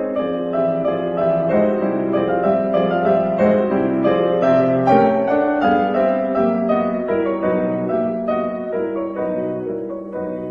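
Piano playing a slow, gentle melody over sustained chords, fading away over the last few seconds.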